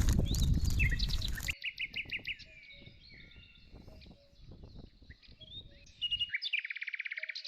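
Songbirds calling and singing, with many short chirps and a fast trill of rapidly repeated notes near the end. For the first second and a half, loud rumbling noise with clicks drowns the birds, then cuts off abruptly.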